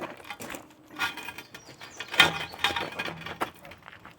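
Steel tire tools knocking and clinking against a steel truck wheel rim while prying at the tire bead, with a few sharp strikes, the loudest about halfway through, and some ringing.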